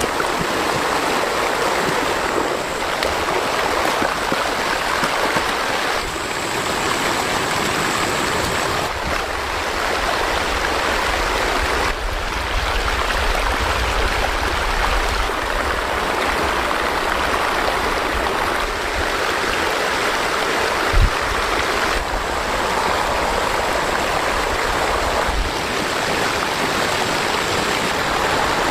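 Fast-flowing floodwater rushing steadily, with a single thump about two-thirds of the way through.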